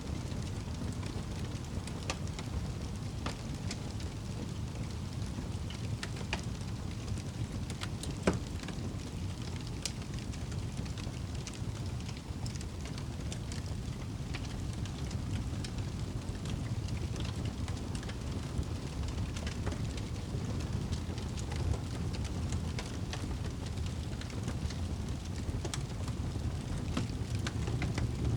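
Wood fire burning in a fireplace: a steady low rumble of the flames with scattered sharp crackles and pops, one louder pop about eight seconds in.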